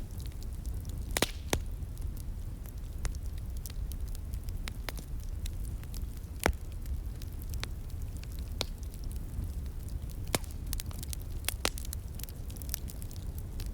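Wood fire crackling, with irregular sharp pops and snaps, a few much louder than the rest, over the steady low rush of a flowing stream.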